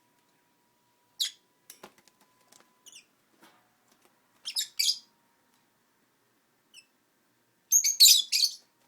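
Pet lovebirds giving short, sharp, high-pitched chirps: one about a second in, two in quick succession in the middle, and a louder rapid cluster near the end.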